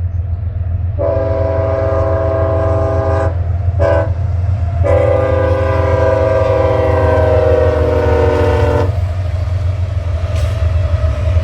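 Locomotive air horn sounding a long blast, a short one and a final long blast, a chord of several tones, its pitch falling slightly during the last blast as the locomotive passes. A steady low rumble of the train runs beneath.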